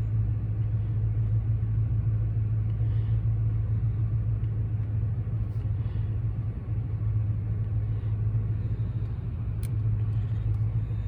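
Dodge Challenger R/T's Hemi V8 idling steadily: a constant low hum.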